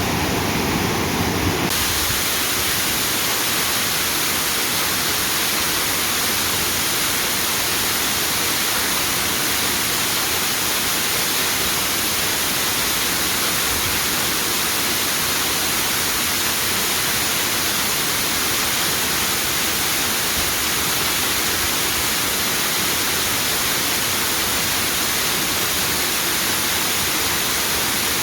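Waterfall rushing: a steady, even hiss of falling water. Just under two seconds in, the sound changes from a deeper rush to a brighter, hissier one, then stays constant.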